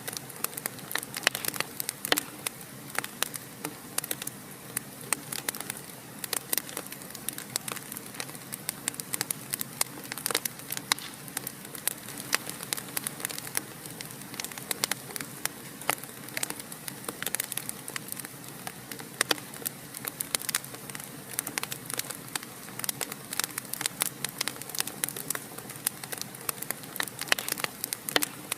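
Fire burning in a fireplace, crackling with many irregular sharp pops over a steady soft hiss.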